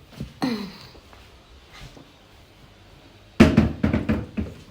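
Hollow knocks and bumps from a small plastic washing machine being shifted into place. A short scrape comes about half a second in, and a quick run of louder knocks comes near the end.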